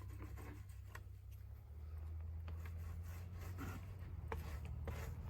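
Faint rubbing and scattered light clicks of hand work pressing resin-soaked fiberglass cloth down onto a drum shell, over a steady low hum.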